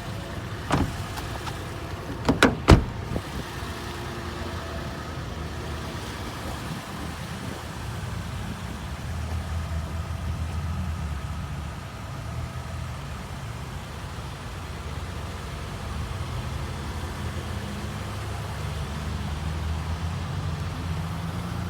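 The 2019 Toyota 4Runner's 4.0-litre V6 idling, a steady low rumble heard from inside the cabin, with a few sharp clicks about one second and two and a half seconds in.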